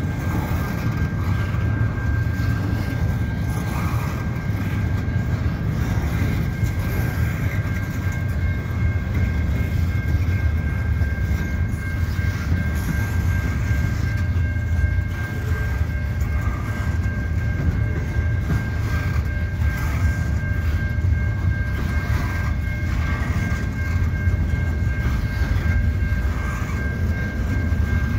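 Double-stack intermodal well cars rolling slowly past: a steady low rumble of steel wheels on rail, with faint repeated clacks over the joints and a steady high-pitched tone throughout.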